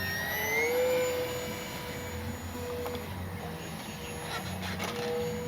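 Brushless electric motor and propeller of an FMS 1500 mm Cessna 182 RC plane whining in flight, rising in pitch about half a second in as the throttle goes up, then holding a steady note that fades in and out.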